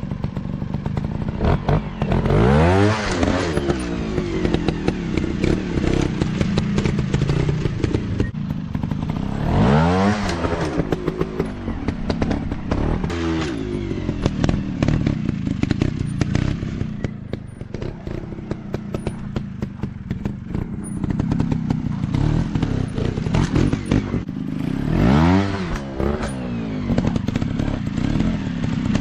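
150 cc dirt bike engines running, the engine note rising and falling a few times as the bikes rev and ride, with rattling and clatter over a steady low drone.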